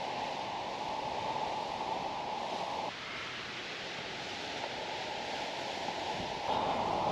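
Strong mountain wind rushing and buffeting the microphone in a steady roar of noise; the sound drops off abruptly about three seconds in and builds again near the end.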